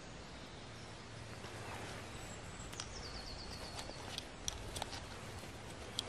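Forest ambience with a small songbird: a quick trill of about ten short descending notes around the middle and a few other brief high calls, followed by several sharp clicks.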